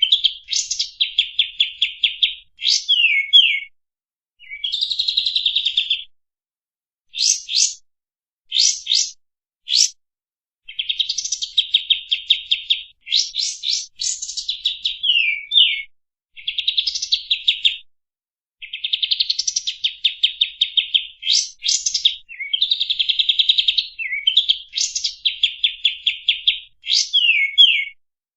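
Kapas tembak songbird singing: repeated bursts of fast, chattering trills lasting one to three seconds each, with short pauses and quick steep whistled sweeps between them.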